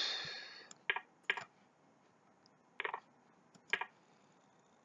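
A burst of noise that fades over most of a second, then four short, separate clicks over the next few seconds, from a computer mouse or the chess site's move sounds during fast online play.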